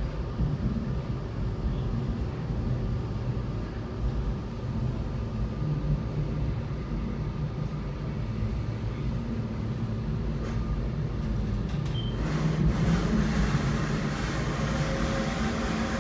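Metra commuter train running along the track: a steady low rumble with a faint hum, growing louder and rougher about twelve seconds in.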